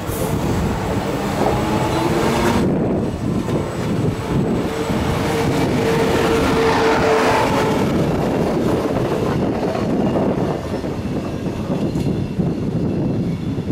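Queensland Rail electric train running past on the rails, with a steady rumble and some wheel clatter, and a steady tone for a few seconds near the middle.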